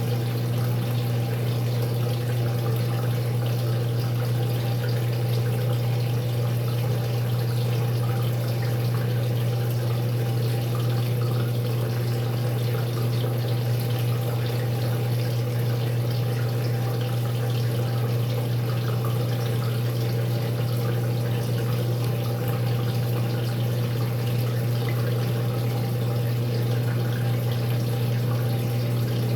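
Maytag MVWX655DW1 top-load washing machine running its tub clean cycle: water running steadily through the machine, with a constant low hum.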